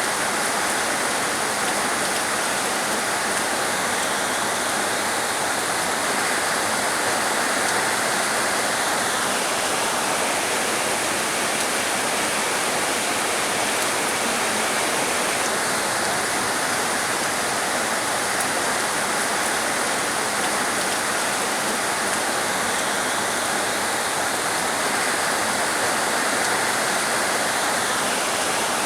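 Heavy rain falling steadily, a dense even hiss. A higher layer of the hiss drops out for about six seconds in the middle, then returns.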